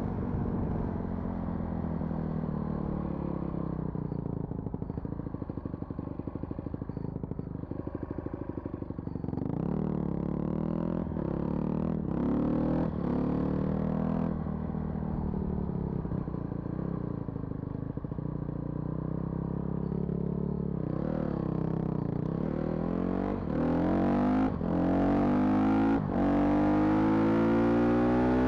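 Motor vehicle engine running on the move, its pitch falling and rising with the throttle, then climbing and getting louder over the last few seconds as it accelerates.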